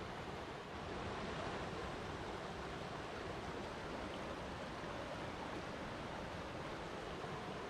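Water flowing and splashing steadily, a continuous even rush like a stream or small waterfall.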